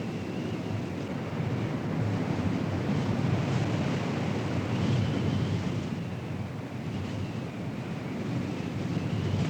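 Strong wind buffeting the microphone: a steady, rushing noise that swells and eases, with a faint high whine that wavers up and down.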